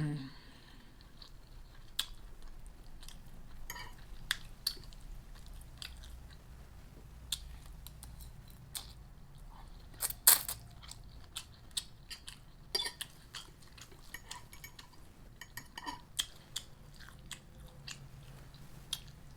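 A person chewing and biting Chinese takeout food close to the microphone: wet chewing with scattered sharp clicks and crunches, the loudest cluster about ten seconds in.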